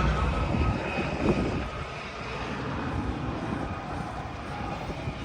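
Propeller airplane engine droning, loudest in the first second and a half and then fading to a lower steady drone.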